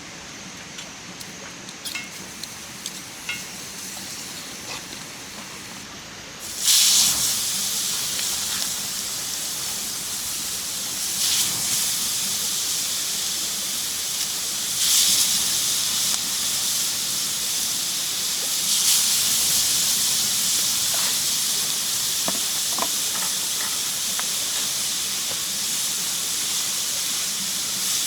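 A few light clicks and crackles, then about six seconds in a loud sizzle starts suddenly: food hitting a hot, oiled pan over the campfire, hissing steadily with occasional small pops.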